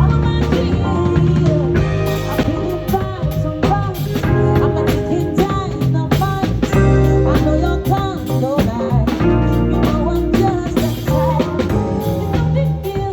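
Live band music: a drum kit keeps a steady beat under strong bass notes and a gliding melodic line.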